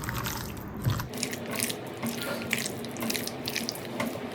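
Raw chicken pieces being mixed by hand in a wet marinade of egg, lemon juice and gram and corn flour, making irregular squelching, squishing sounds.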